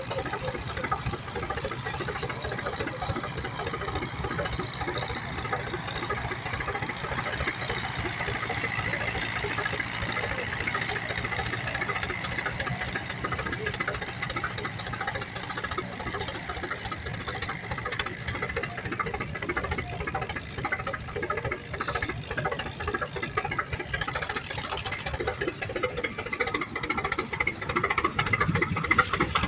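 Tractor engine running steadily with a rapid, even firing beat, getting louder near the end.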